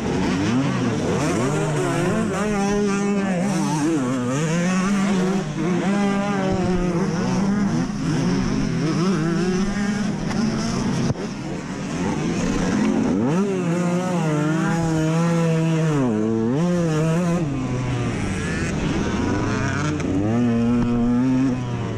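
Dirt bike engine running hard on a motocross track, its pitch climbing, holding and dropping again and again with the throttle.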